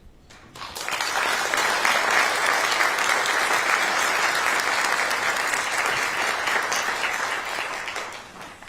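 Audience applauding: clapping that builds within the first second, holds steady, and fades out near the end.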